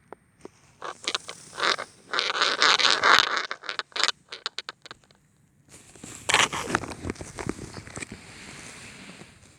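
Close rustling and scraping handling noise in irregular bursts, pausing briefly about halfway through.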